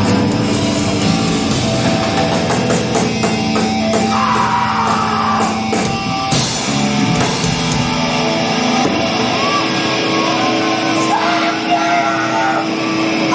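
A loud live punk rock band playing distorted electric guitar and drums, with a long held guitar tone through the latter part.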